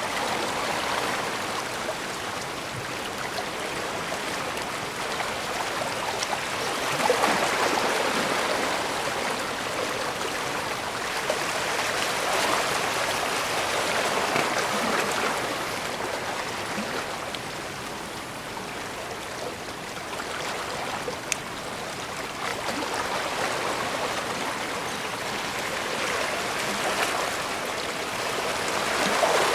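Bay water washing against the shore, a continuous rushing hiss that swells and eases every few seconds.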